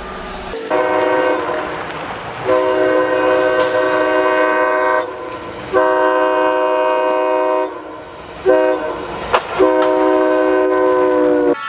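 Train horn sounding a chord in repeated blasts, about five in all, three of them long ones of about two seconds, over the noise of the train running.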